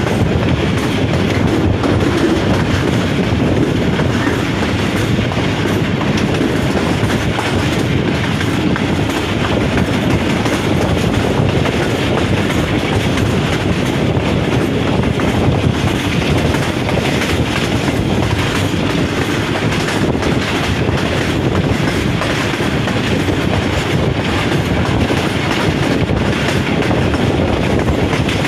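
Pakistan Railways economy-class passenger train running along the line, heard from aboard: a steady rumble of wheels on the track with a faint, irregular clatter.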